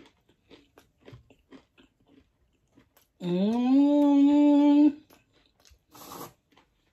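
Close-miked chewing of fried chicken: soft, wet mouth clicks throughout. About three seconds in comes a drawn-out voiced hum that rises at first, then holds steady for under two seconds; it is the loudest sound. A short breathy puff follows near the end.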